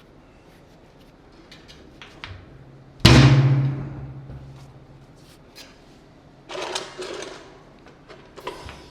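A sharp knock on metal about three seconds in, ringing with a low hum that dies away over about a second. Lighter clicks and taps come before it, and there is a brief scrape near the end.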